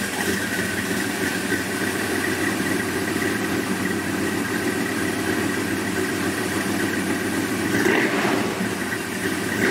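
Car engine idling steadily, with a brief swell in revs about eight seconds in.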